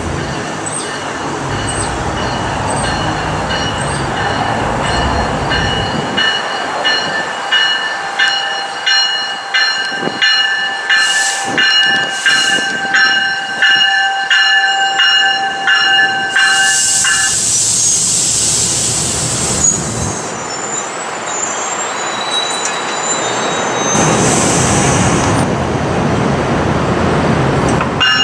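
NJ Transit Multilevel commuter train running by: a low rumble, then wheels clicking rhythmically over rail joints under steady whining tones, with two bursts of hiss in the second half.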